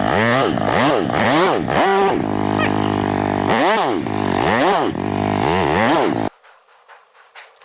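Yamaha YZ450F's four-stroke single-cylinder engine revved in about seven quick blips, pitch rising and falling with each, until the sound cuts off suddenly about six seconds in.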